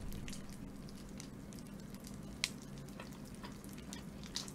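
Faint close-up crackling and scattered clicks of someone chewing crispy fried food, with one sharper click about two and a half seconds in.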